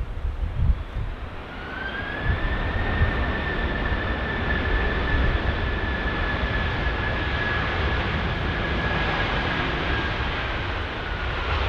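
Airbus A330 jet engines whining as the airliner passes, a high steady whine over a broad rush that rises about a second and a half in and sinks a little near the end. Wind gusts rumble on the microphone underneath.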